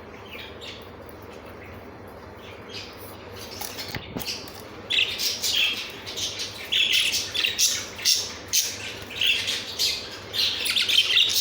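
Several budgerigars chattering and squawking, with fast high-pitched chirps. It is faint and sparse at first, then turns loud and busy about halfway in.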